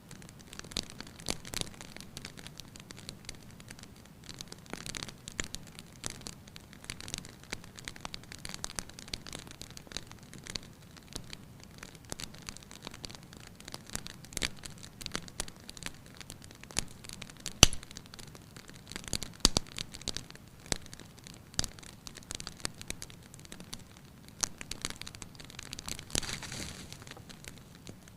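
Wood fire crackling in a fireplace: irregular sharp pops and snaps over a soft, steady hiss, with one louder snap a little past halfway.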